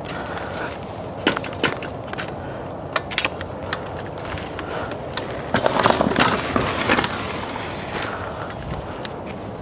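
Pit bike rolling over a rough dirt trail, its wheels and frame rattling with many sharp clicks and knocks. The noise gets rougher and louder about six seconds in.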